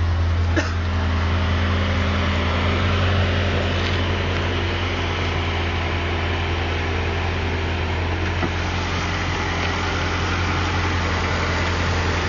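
Mercedes-Benz CLK AMG's V8 engine idling steadily with a deep, even hum, heard with the bonnet open. A brief click comes about half a second in.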